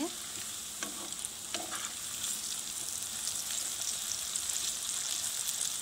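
A potato, onion and black-chickpea fritter mixture sizzling and crackling steadily as it fries in hot mustard oil in a kadhai, with a wooden spatula turning it over. The oil is still bubbling hard, the sign that the fritter is not yet cooked through.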